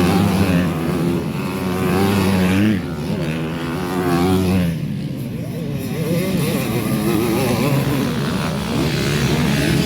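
Motocross bike engine revving up and down under racing load, its pitch rising and falling with the throttle and gear changes.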